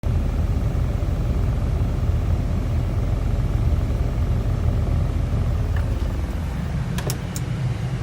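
Used Japanese truck's engine running steadily with a low rumble. A few short clicks come about seven seconds in.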